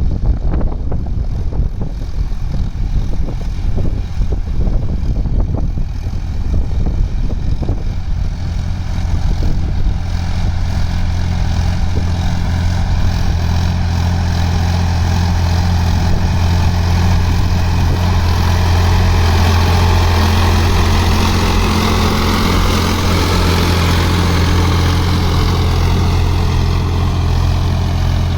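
Sonalika DI-47 RX tractor's diesel engine running steadily with a low drone while working with an 11-tine cultivator, with some irregular clatter over the first several seconds.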